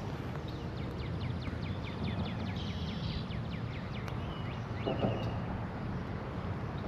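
A small bird singing a quick run of short descending notes for a few seconds, over a steady low rumble of outdoor background noise.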